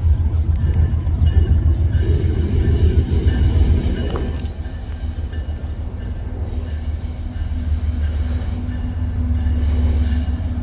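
A train rolling past with a heavy, steady low rumble, and a steady tone growing stronger over the last few seconds.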